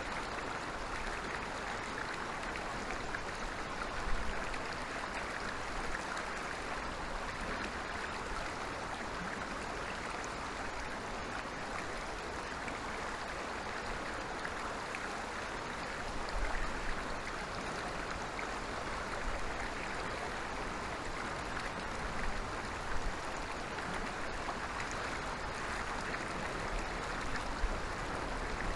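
Forest stream running with a steady rushing and babbling of water, with a few soft low bumps.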